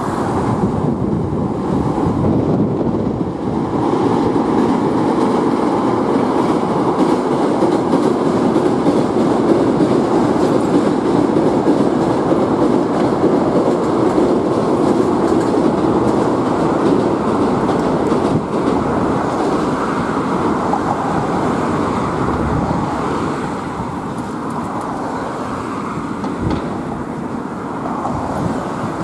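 Hankyu electric commuter trains running past, a steady rumble of wheels on rails that eases a little near the end.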